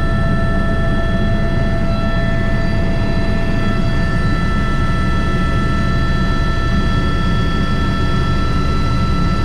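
Airbus H125 (AS350 B3) helicopter in flight, heard from the cockpit. Its turbine and rotors run steadily, with a constant whine of several fixed tones over a dense low drone.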